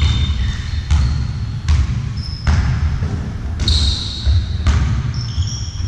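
Indoor ball game in a sports hall: a ball strikes the floor about seven times at irregular spacing, with short high shoe squeaks in between, over a steady low rumble.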